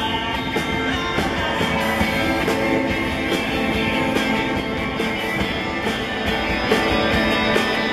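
A live rock band playing an instrumental stretch between sung lines, electric guitar to the fore over a steady drum beat.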